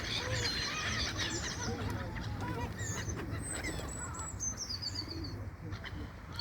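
A flock of seagulls calling over one another, many short overlapping squawks and higher chirps, over a low steady rumble.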